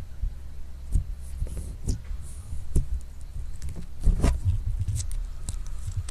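Slime being squeezed and poked by hand, giving irregular sticky pops and clicks, with a quick cluster of them about four seconds in. A steady low hum runs underneath.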